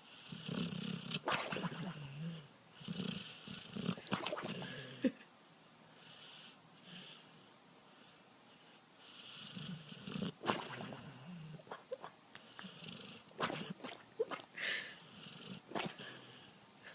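Dog snoring in a series of raspy breaths, with a lull of several seconds in the middle before the snoring starts up again.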